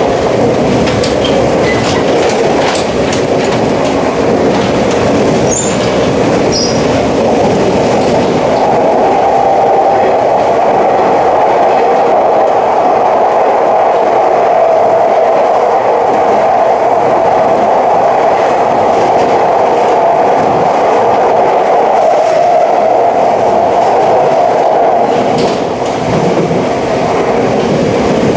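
A 485-series electric train heard from inside a passenger car while running at speed: a steady rumble of wheels on rail with a band of hum that settles in a few seconds in. Sharp clicks come near the start and again near the end, where the noise briefly drops.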